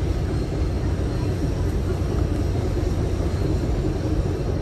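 Steady rumble of a moving commuter train heard from inside a bi-level passenger coach: the train running along the track, with no sudden events.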